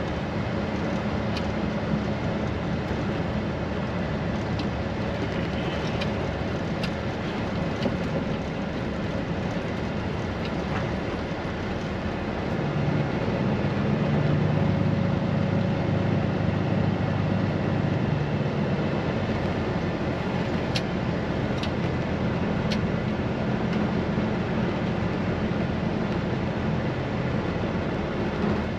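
Straight-piped Peterbilt 389 semi truck's diesel engine running steadily, a low exhaust drone that grows louder for several seconds in the middle before settling back. A few faint clicks are heard over it.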